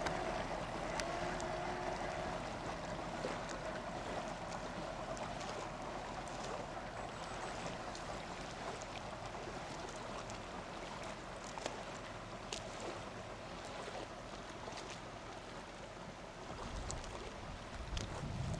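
Small motorboat underway: its motor running steadily under a rush of water and wind noise.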